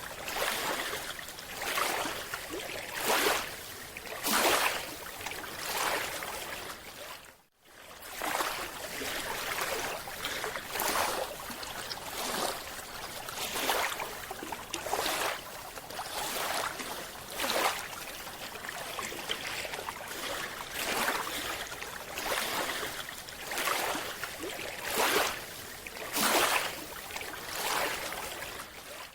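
Water noise surging and fading about once a second, with a brief dropout about seven and a half seconds in.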